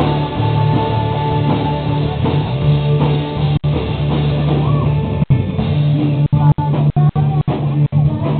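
A live band playing rock music, with electric guitar and drum kit. From about halfway through, the recording cuts out for split seconds again and again.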